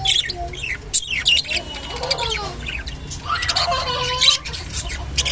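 Budgerigars chirping and chattering: a busy run of quick short chirps and clicks, mixed with lower warbling calls that bend up and down in pitch.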